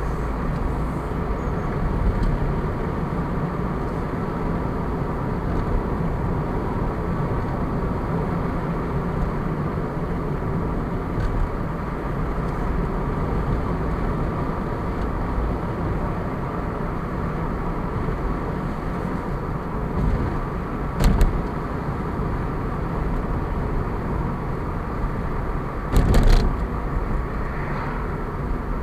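Car driving along a road: steady engine and tyre noise, with two short knocks, one about two-thirds of the way through and another near the end.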